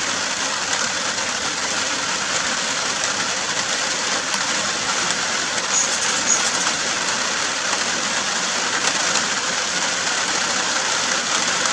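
Steady rain falling, an even hiss that holds at one level throughout, with two faint high chirps about six seconds in.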